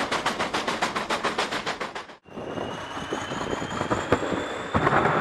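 Steam locomotive exhaust chuffing fast and evenly, about five beats a second, cut off abruptly about two seconds in. A steadier train rumble follows, with a faint high whine and a few knocks, growing louder near the end.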